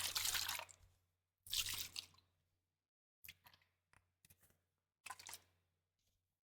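Close-miked wet liquid sounds: a hissing burst that stops about a second in, a second short burst, then several short wet squishes and clicks.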